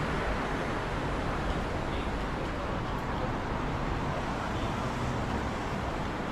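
Steady city street noise: a continuous hum of road traffic with no distinct events.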